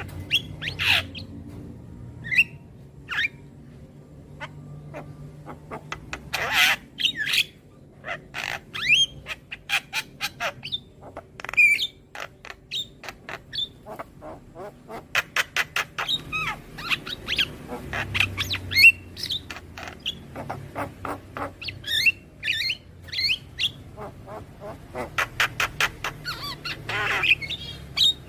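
Young Javan myna (jalak kebo) calling: a varied string of harsh squawks, rapid clicking chatter and short rising whistles.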